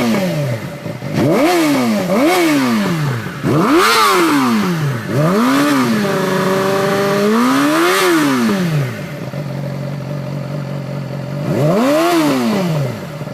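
2014 Yamaha R6 inline-four engine through a TOCE exhaust, revved in quick throttle blips that rise and fall about seven times. Its revs are held steady briefly in the middle, and it settles to idle for a couple of seconds before one last rev near the end.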